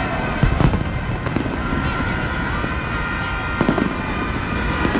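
Fireworks going off in sharp bangs, a couple about half a second in and again near four seconds, over steady blaring vuvuzela horns and crowd voices.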